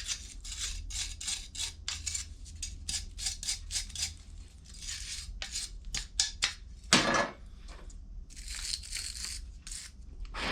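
Quick, repeated scraping and rubbing strokes as dirt and grime are cleaned off a lawn mower engine part, with a single louder knock about seven seconds in. A steady low hum runs underneath.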